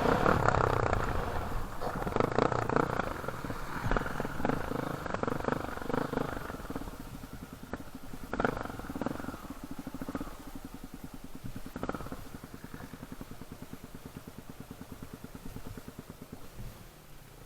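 Dirt bike engine running, loudest in the first few seconds with a few short sharp blips, then settling to an idle with an even, rapid beat that slowly quietens.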